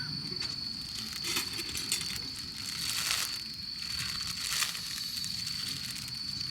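Irregular crackles and crunches over a steady, high-pitched insect trill.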